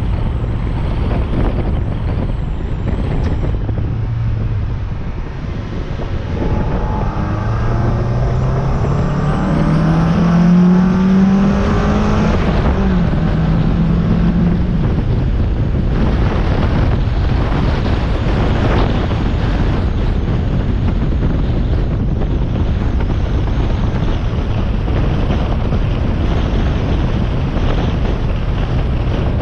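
Mazda MX-5 NB's four-cylinder engine and intake heard while driving, under heavy wind buffeting on the bonnet-mounted microphone. About a third of the way in the engine note climbs steadily as the car accelerates, breaks briefly, holds a few seconds longer, then sinks back under the wind.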